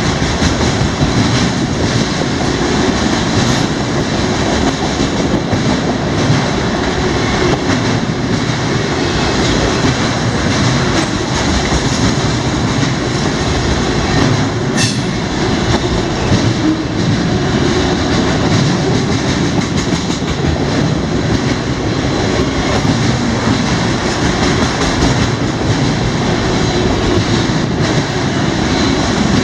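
Freight train's cars rolling past at close range: a steady, loud rumble of steel wheels on rail, with faint ticks and one sharp click about halfway through.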